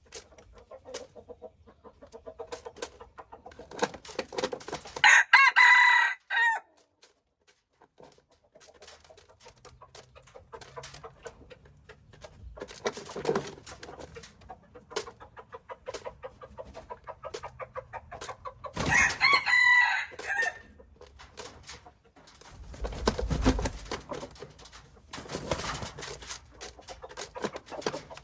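Rooster crowing twice, about five seconds in and again about fourteen seconds later, with softer clucking and scattered clicks between the crows.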